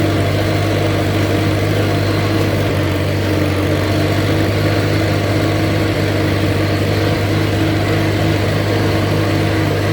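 Allis-Chalmers C tractor's four-cylinder gasoline engine running steadily under load while driving a Woods belly mower deck cutting weeds.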